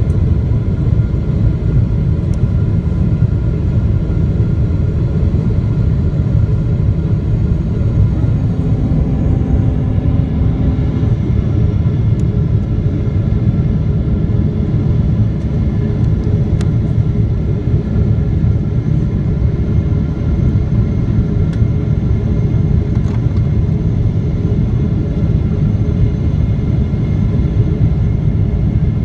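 Boeing 777-300ER cabin noise during the approach to landing: a steady, loud rumble of engines and airflow with faint steady tones above it, and a few faint ticks.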